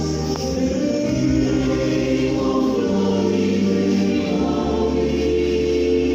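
Choir singing slow, held chords over a sustained low bass note, the harmony shifting every second or two.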